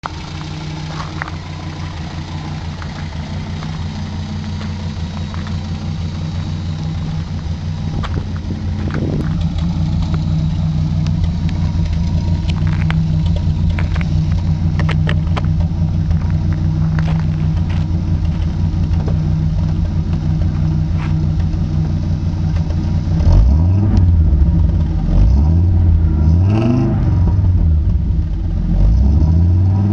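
Audi GT's 2.2-litre five-cylinder engine (KV) running with no muffler: a steady, loud exhaust idle that slowly grows louder over the first twenty seconds or so. From about 23 s the throttle is blipped several times, the revs rising and falling quickly.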